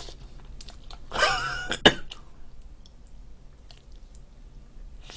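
Close-miked chewing of a bite of pizza, with faint wet mouth clicks. About a second in comes a short, louder mouth sound, ending in one sharp click.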